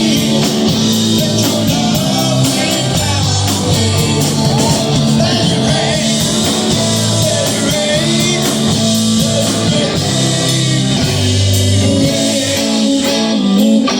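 Rock band playing, with a singer over guitar, bass and steady held bass notes.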